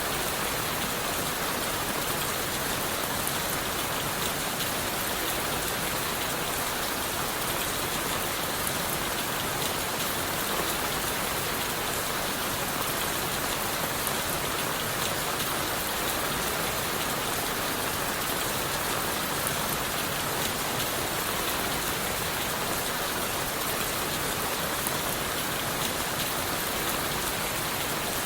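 Steady rain falling on leaves and wood: an even hiss with a dense patter of countless small drops, unchanging throughout.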